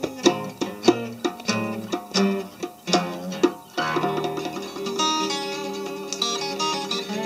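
Instrumental passage of a song: plucked guitar notes struck one at a time, then a held chord with quick picked runs over it from about four seconds in.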